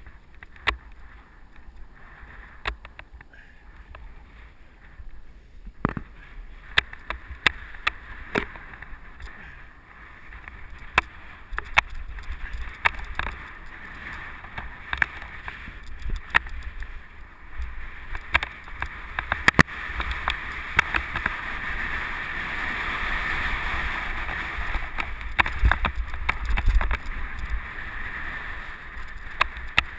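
Mountain bike rolling along a dirt trail, heard from a helmet-mounted camera: steady tyre and wind noise with many sharp, irregular clicks and rattles from bumps. The rushing noise grows louder in the second half.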